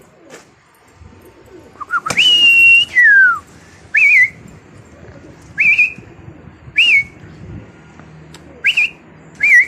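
A person whistling to call pigeons down to the loft. About two seconds in there is one long whistle that slides down in pitch at its end, then five short chirped whistles about a second apart.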